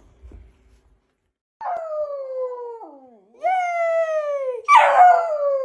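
A dog howling: three long howls in a row, each sliding down in pitch, starting about a second and a half in.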